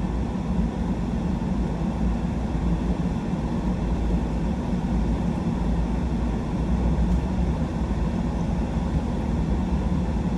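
Pickup truck driving slowly, a steady low rumble of engine and tyre noise.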